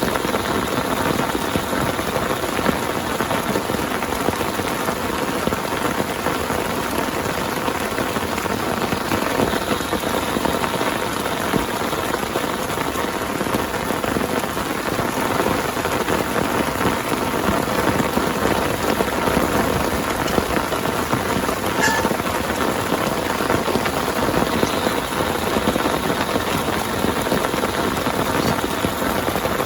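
Heavy rain falling steadily, with a dense patter of drops on a surface.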